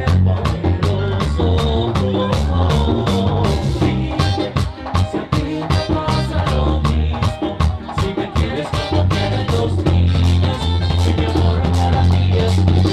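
Live bachata band playing an instrumental stretch without vocals. Bass and guitars run over a steady scraped-percussion beat of about four strokes a second.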